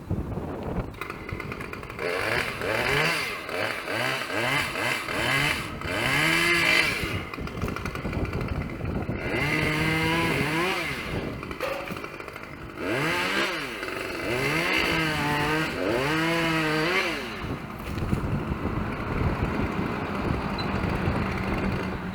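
Two-stroke chainsaw revved over and over, its engine pitch rising and falling in short bursts, then held at high speed for a second or two at a time, as when cutting wood.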